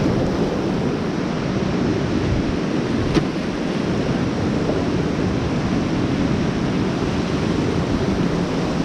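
Whitewater rapids rushing around a raft, with wind buffeting the microphone. A single sharp click sounds about three seconds in.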